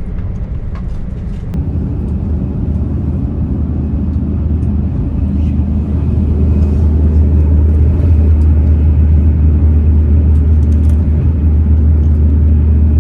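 Sanyo Shinkansen Sakura train running at speed, a steady low rumble that grows louder over the first several seconds.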